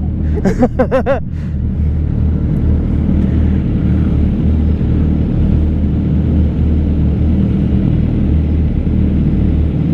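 Steady low rumble of a motorcycle ride heard from on the bike: the engine running at an even speed with no revving.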